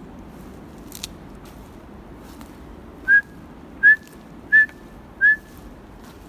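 Four short, sharp whistles about 0.7 s apart, each note rising slightly in pitch with a brief fainter tail.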